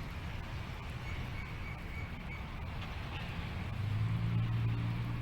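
Steady low outdoor rumble, with a low motor-like hum coming in near the end.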